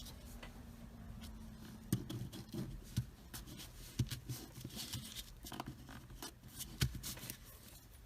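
Paper craft handling: scattered light taps and paper rustles as glued paper is folded and pressed together by hand.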